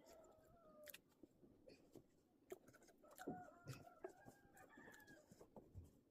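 Faint rooster crowing: one crow trailing off about a second in, and another long crow starting about three seconds in.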